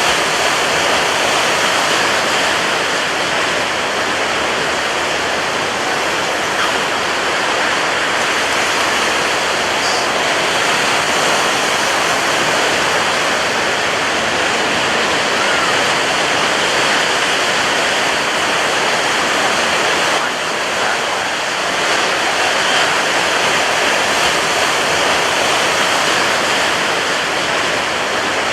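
Ocean surf breaking on a beach: a loud, steady, dense wash of wave noise, easing slightly for a moment about two-thirds of the way through.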